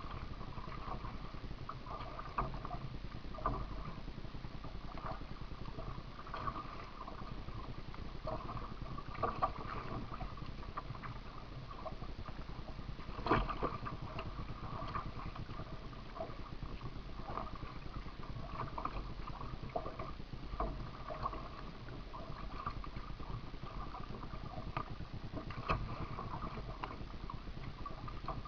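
Kayak paddling: paddle blades dipping and splashing in the water in a regular rhythm, roughly one stroke a second, with a sharper knock about halfway through.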